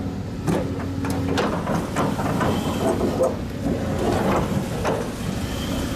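Heavy machinery engine running at a works site, with repeated metallic clanks and knocks. Its steady hum drops away about a second and a half in, leaving a rougher rumble.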